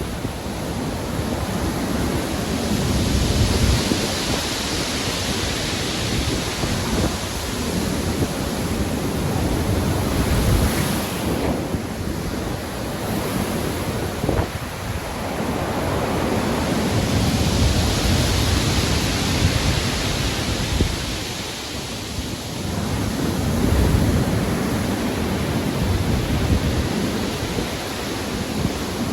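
Heavy ocean surf with wind: a continuous rushing wash that swells and eases in slow surges as waves break and roll in, over a low rumble.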